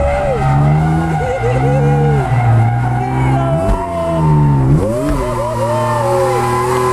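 Ford Falcon FG drift car's engine revving hard, its pitch climbing and dropping again and again as the throttle is worked, with tyres skidding.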